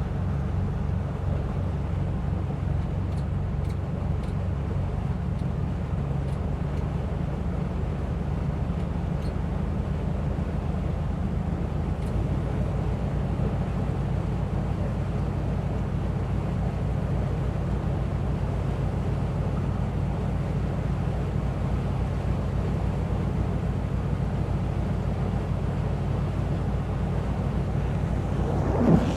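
Inboard engines of a 38-foot motor yacht running steadily under way, a low even drone whose note shifts slightly about twelve seconds in, over a wash of water and wind noise.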